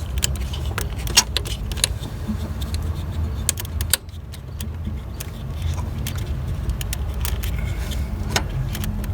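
Scattered light metallic clicks and clinks of hand tools and small parts being handled at a car starter's wiring terminal, over a steady low hum.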